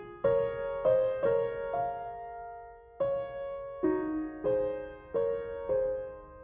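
Slow, gentle solo piano music: about eight chords struck at an unhurried pace, each left to ring and fade, with a brief pause near the middle.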